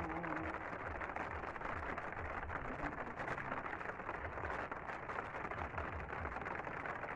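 Steady hiss of rain, with uneven low wind rumble on the microphone.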